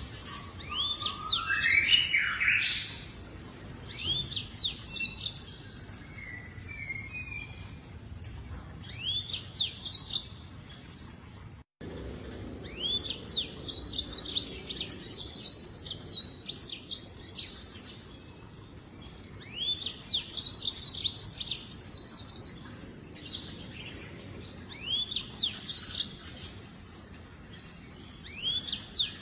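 Lemon-breasted canary singing: phrases of high, quick chirps and rapid trills, separated by short pauses.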